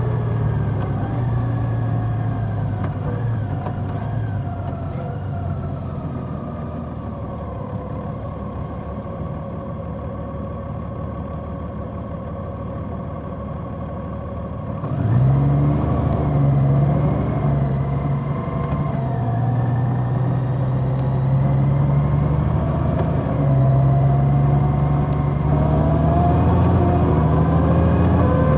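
Large motorcycle engine running under way at a steady moderate pace. About halfway through it gets louder as the throttle opens, its pitch rising and then shifting in steps.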